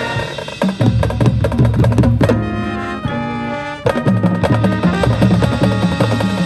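Marching band playing: a drumline beats out dense, loud strikes under sustained brass chords. About halfway through, the drums drop out and the chords play alone for about a second, then the drums come back in.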